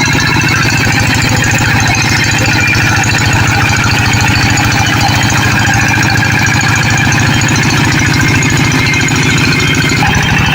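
Farm tractor's diesel engine running steadily with a fast, even knocking pulse.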